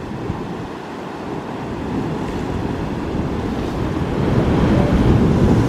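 Low rumble of an Airbus A220-300's Pratt & Whitney PW1500G geared turbofan engines, growing louder from about two seconds in and peaking near the end.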